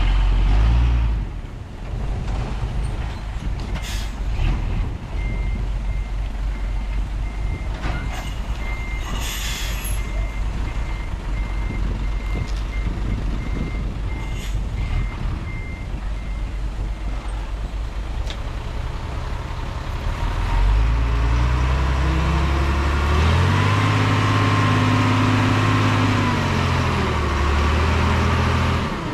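Dump truck backing up, its reversing alarm beeping a little more than once a second for about twelve seconds over the engine, with a short hiss of air about ten seconds in. From about twenty seconds in a heavy engine gets louder and revs up and back down.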